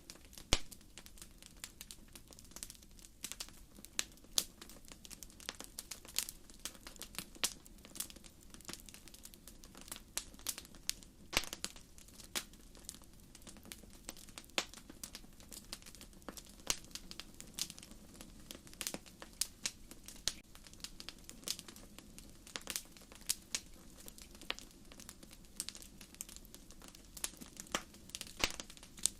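Wood fire crackling: burning firewood gives off irregular sharp pops and snaps, a few a second, over a steady low rumble of the flames.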